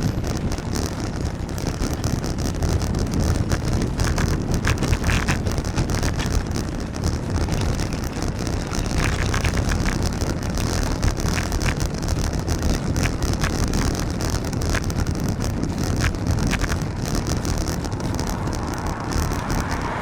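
Steady rumble of wind on the microphone and road noise from riding a bicycle on a wet road in the rain, with scattered short ticks.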